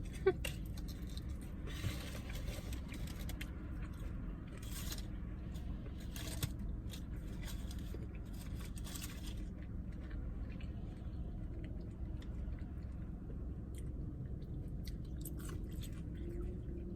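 A person chewing and biting chicken wings close to the microphone, with irregular crunchy, wet mouth sounds. A steady low hum runs underneath.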